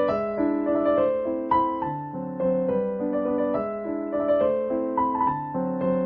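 Soft piano music: a gentle melody of struck notes that ring and fade, over a slow chord accompaniment.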